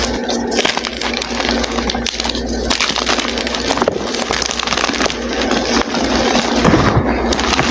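Soft gym chalk being crushed and crumbled, a continuous run of dense, fine crackly crunching, with a few low thumps near the end.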